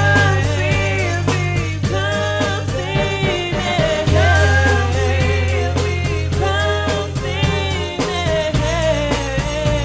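A band playing a song: a lead vocal line sung over a steady drum beat and long held bass notes.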